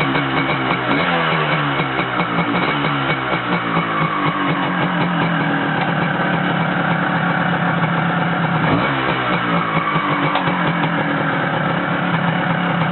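Kawasaki KH100EX's single-cylinder two-stroke engine idling steadily soon after a cold start, with small shifts in pitch about a second in and near nine seconds. It runs smoothly on a freshly cleaned carburettor and air filter.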